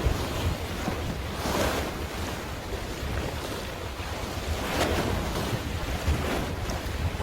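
Wind buffeting the microphone with a steady low rumble, over sea waves washing in, swelling twice.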